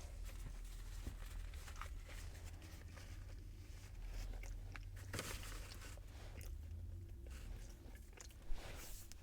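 Close-miked chewing and biting of crunchy fast food, with wet mouth clicks and crackles, and one sharp click near the end.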